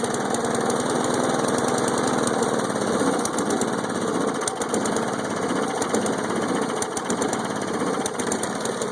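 Lawn mower engine running steadily with a rapid clattering rattle.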